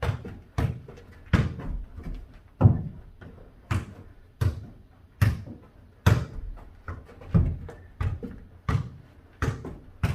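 A ball being kicked and bouncing on a hard floor in a fast foot-volleyball rally: a steady run of sharp thuds, roughly one every 0.7 s, each ringing briefly in a small room.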